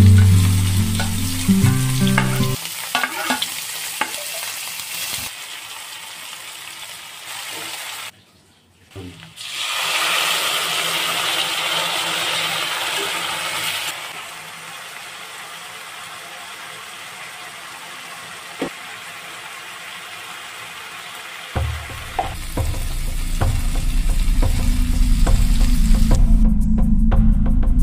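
Sliced onion frying in hot oil in a kadai: a steady sizzle with a spoon stirring and scraping in the pan. After a short break it grows louder for a few seconds, then settles back. Background music plays at the start and takes over for the last third.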